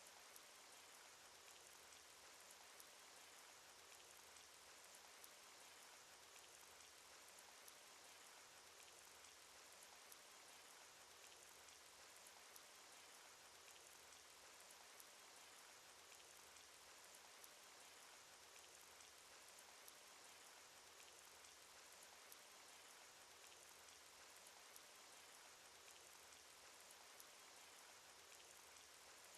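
Cartoon rain sound effect: a faint, steady patter of rain with scattered small drop ticks.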